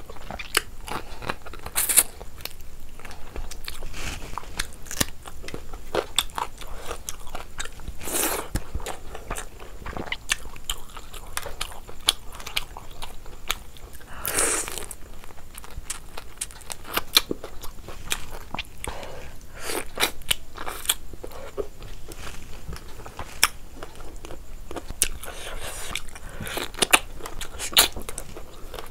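A person eating by hand: chewing and biting with wet mouth sounds and crunches, and fingers mixing rice with curry on a plate, giving many scattered sharp clicks.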